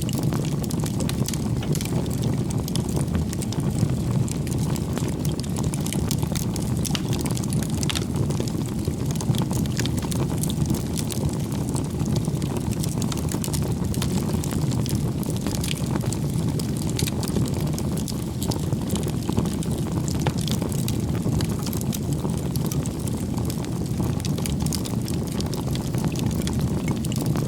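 Wood campfire burning: a steady low rush of the flames with frequent small crackles and pops from the burning firewood.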